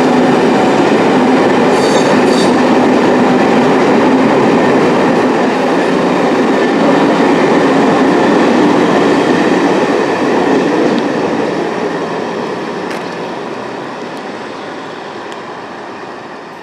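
Steam-hauled passenger train running past, its wheels rumbling and clattering on the rails, then fading away steadily over the last six seconds.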